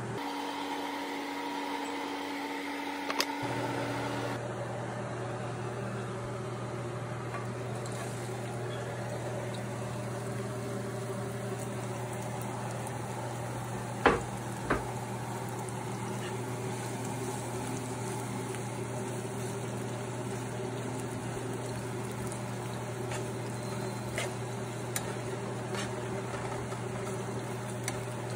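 Sliced onion and green onion frying in oil in a nonstick pan: a steady sizzle over a low hum. A metal spatula knocks sharply against the pan twice about halfway through, with a few lighter clicks of stirring near the end.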